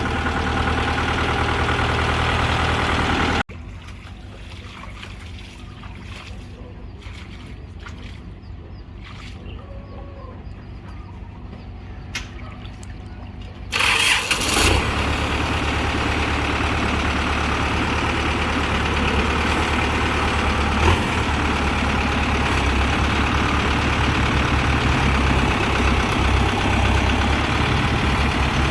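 Kubota M6040SU tractor's diesel engine running. A few seconds in it drops suddenly to a much quieter level for about ten seconds, then comes back loud with a short burst about halfway through and runs steadily after that.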